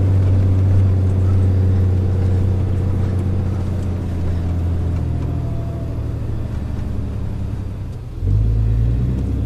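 Pickup truck with a camper driving: a steady low engine drone with road noise, heard from inside the cab. The engine note eases slightly midway, then steps up sharply in pitch and loudness about eight seconds in.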